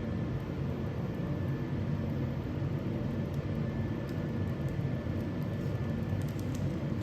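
A steady low mechanical drone, with a faint steady whine above it, running without change.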